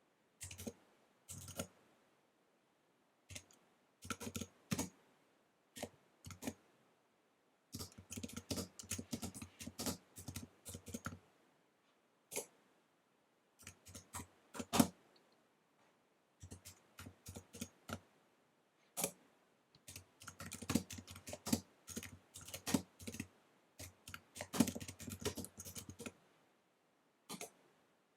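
Fast typing on an Apple wireless keyboard: quick runs of key clicks broken by short pauses, with longer bursts from about 8 to 11 seconds in and from about 20 to 26 seconds in.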